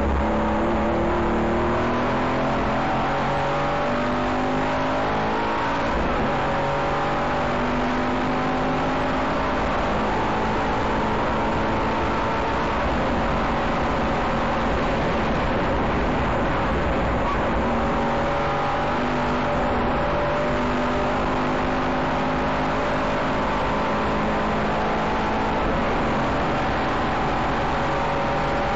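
Aston Martin Vantage's engine heard from inside the race-prepared cabin, accelerating hard through the gears: the pitch climbs, drops at each upshift and climbs again, over steady tyre and road noise.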